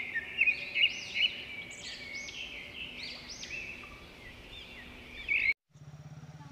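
Birds chirping: many short, arched calls that repeat and overlap, cutting off abruptly about five and a half seconds in. After a moment of silence a faint low hum begins.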